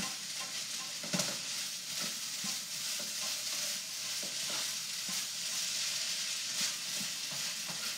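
Fried rice with Peking duck sizzling in a very hot wok, with the scrape and clatter of a spatula stirring and tossing it.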